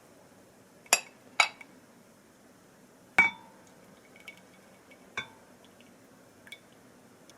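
Dishes or glassware clinking as they are handled and set down: a handful of separate sharp knocks a second or two apart, one of them ringing briefly.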